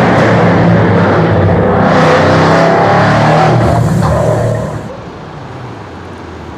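1000 hp Audi RS6 DTM's V8 engine running loud through its Milltek exhaust, then falling away sharply about four and a half seconds in.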